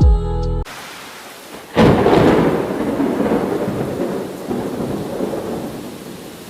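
A loud thunderclap about two seconds in, its rumble fading slowly through the following seconds over steady rainfall. At the very start a snatch of music with a falling tone cuts off abruptly.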